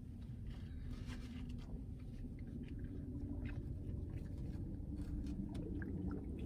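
Close-up chewing and small mouth clicks of someone eating fried chicken tenders, over a steady low rumble inside a car.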